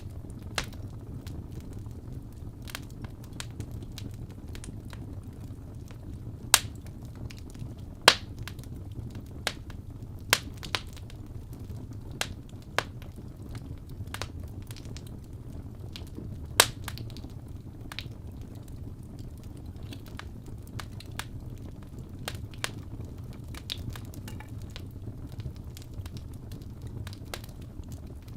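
Crackling wood fire in a fireplace: a steady low rumble of burning with irregular sharp pops and snaps, a few of them much louder, around the middle.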